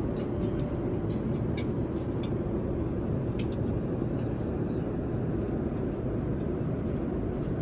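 Steady low cabin noise of a Boeing 787-9 airliner in flight, with a few faint light clicks in the first two seconds and another about three and a half seconds in.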